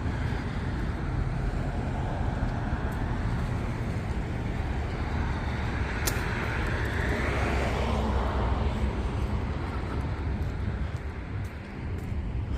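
Street traffic, with one vehicle passing by about halfway through, its sound swelling and then fading, over a steady low rumble.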